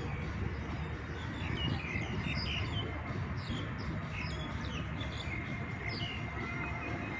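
Many small birds chirping, short high calls scattered throughout, over a steady low outdoor rumble.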